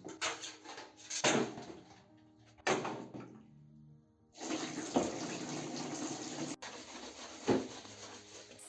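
A few sharp knocks, then water running steadily from about four seconds in, over background music.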